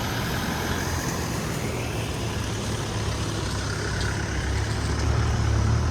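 Truck engine running with a steady low hum, growing louder near the end.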